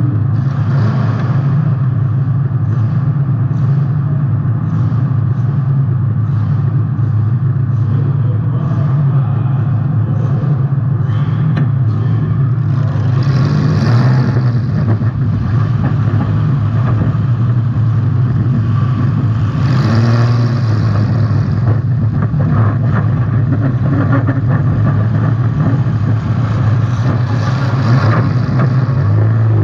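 Demolition derby car's engine running loud and steady, heard from onboard the car. There are louder surges about fourteen and twenty seconds in, and again near the end.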